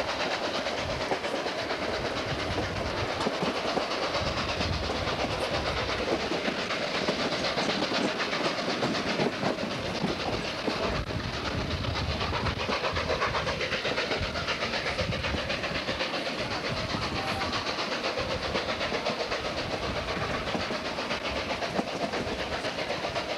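Steam-hauled passenger train running along the track, heard from an open coach window: a steady rumble and clatter of wheels on rail.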